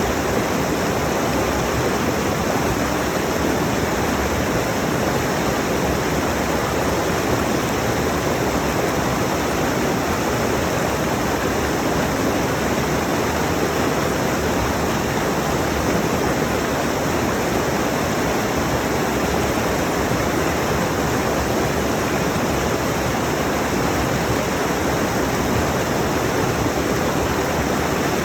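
Rushing mountain stream: a steady, even wash of moving water with no breaks or single events.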